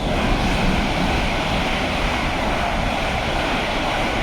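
Fast train passing straight through the station at speed: a loud, steady rush of wheel, rail and air noise that comes on suddenly and holds.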